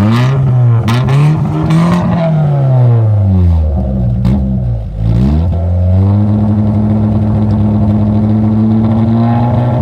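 Car engine revving with its muffler cut off: the revs climb and fall in the first few seconds, then are held steady at a raised speed for the rest.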